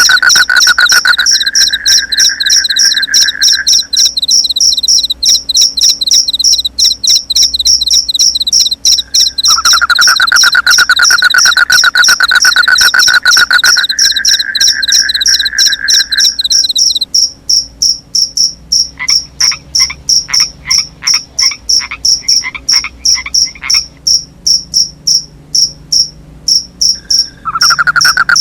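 Night chorus of crickets and frogs: a fast, unbroken high-pitched chirping, joined by a lower trilling call in long stretches that stop and start again, with a shorter run of separate pulsed calls in the middle.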